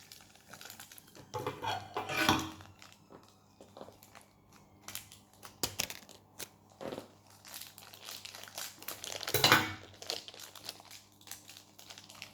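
Plastic toy blind-pack packaging being crinkled and torn open by hand: irregular rustling and crackling, with louder bursts about two seconds in and again about nine seconds in.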